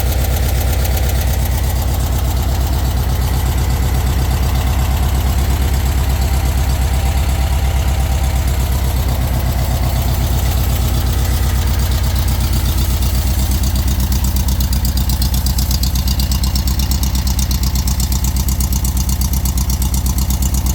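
Stock Volkswagen 1600 dual-port air-cooled flat-four with a 39 mm carburettor, idling steadily with an even pulse.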